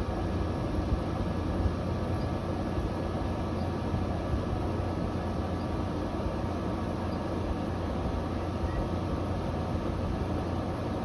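Window air conditioner running steadily: a constant low hum under the rush of its fan.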